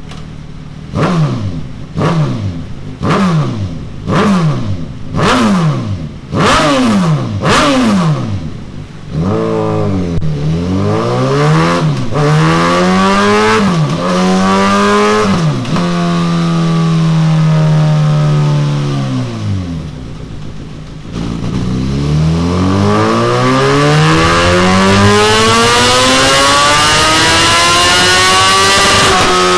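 Suzuki GSX-S1000 inline-four through a Delkevic DS70 carbon-fibre slip-on exhaust: about eight short throttle blips, one a second, then longer revs that rise and fall and a few seconds held at steady revs. After a drop back, the engine climbs steadily to high revs over the last eight seconds or so, as in a dyno pull.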